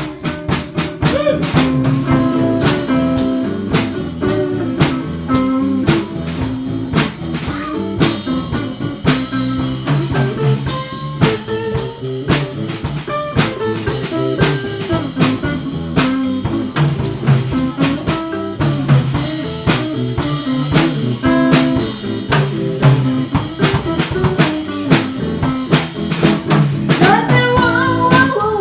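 Live band playing an instrumental passage with drum kit and electric guitar over a steady beat; a higher, gliding melody line comes in near the end.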